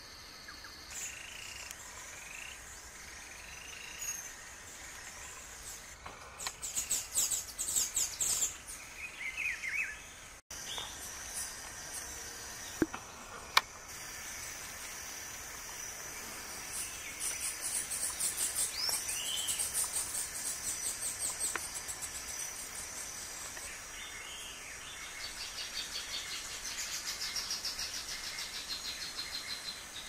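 Wild birds calling: short rising call notes, then several bouts of fast, high trills, over a steady hiss of insects. Two sharp clicks sound about halfway through.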